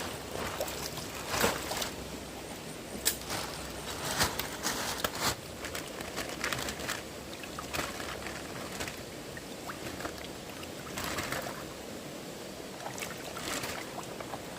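Water running with irregular splashes and knocks, several sharp ones in the first five seconds, typical of wading and working in a fast-flowing stream.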